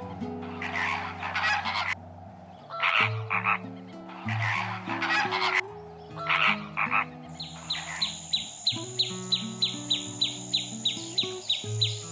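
Frog croaking in short raspy calls repeated every second or so. About seven seconds in, it gives way to a fast, even chirping, about four chirps a second.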